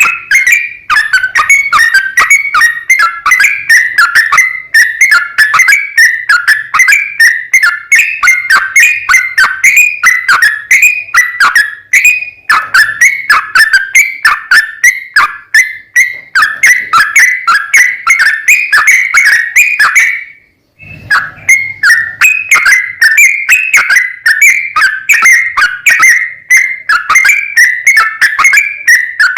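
Yellow-vented bulbul (trucukan) singing a rapid, unbroken 'ropel' song: short whistled phrases repeated several times a second, with one brief break about 20 seconds in.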